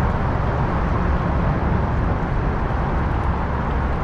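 Steady low rumbling noise of a kayak under way on the river, with no distinct strokes or changes.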